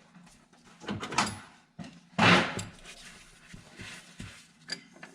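A few knocks and one brief scrape of tools and parts being handled in a truck's engine bay.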